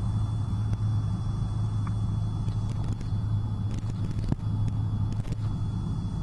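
Cessna 172's four-cylinder piston engine and propeller droning steadily in cruise power, heard inside the cockpit. A few brief clicks come through midway.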